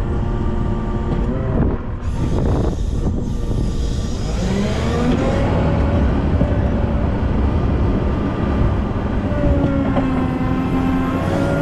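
Volvo L90F wheel loader's diesel engine running under work, revving up about four seconds in and holding high revs, with a steady whine coming in near the end.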